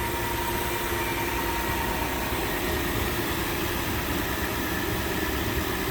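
Lexus LX470's 4.7-litre V8 idling steadily in park after a cold start, with no exhaust-manifold tick to be heard.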